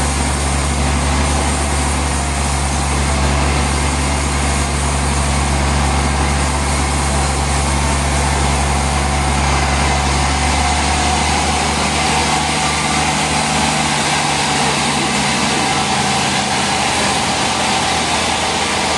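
Sawmill machinery running steadily, a loud mechanical noise with a low engine hum that fades away a little over halfway through.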